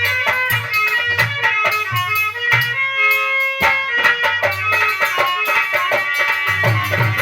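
Instrumental bhajan music: a dholak drumming a fast, driving rhythm under a melodic instrument. About three seconds in the drumming stops for under a second, then comes back in with a sharp stroke.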